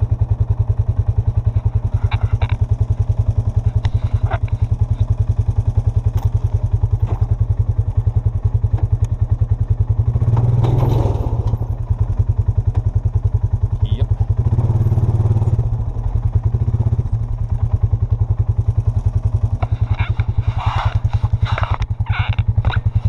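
A vehicle engine running with a steady, fast low throb, working harder twice: about ten seconds in, and again about five seconds later, as it tries to pull a trailer that has sunk into the ground. There are a few light knocks and clatters.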